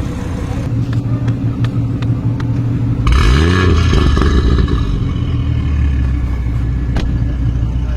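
Audi RS3 Sportback's turbocharged 2.5-litre five-cylinder engine, breathing through an aftermarket Armytrix exhaust, idling and then revved once about three seconds in, the pitch climbing quickly before it drops back to a steady idle. A single sharp crack comes near the end.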